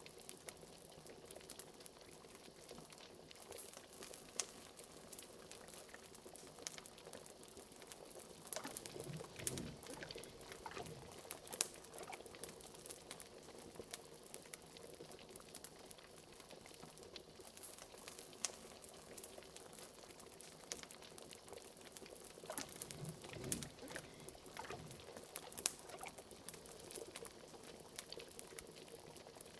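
Bubbling cauldron: liquid at a slow boil with a constant patter of small pops and crackles. Twice, about nine and twenty-three seconds in, a few larger, deeper bubbles break.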